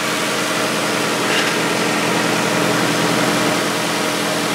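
1998 Chevy Tracker's 1.6-litre four-cylinder engine idling steadily, heard from beneath the vehicle beside its exhaust pipe and muffler. An even, unchanging hum.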